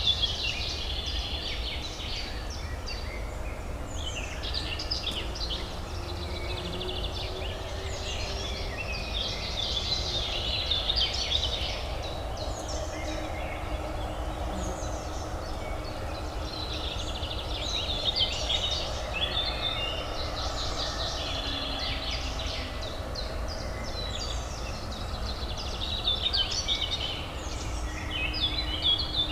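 Songbirds chirping and singing in quick bursts every few seconds over a steady low urban hum.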